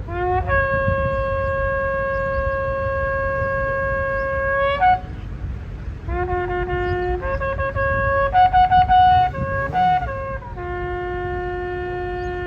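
Shofar blasts: one long held note that bends upward as it ends, then a run of about three shorter notes of roughly a second each, then another steady held note.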